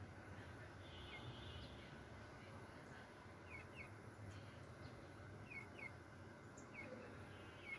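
Faint, short, high peeps from white-breasted waterhen (dahuk) chicks, each dipping slightly in pitch and often coming two in quick succession, over a low steady background rumble.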